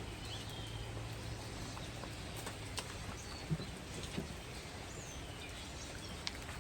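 Faint background with a few scattered, high bird chirps and a couple of light clicks; a low hum fades out in the first second and a half.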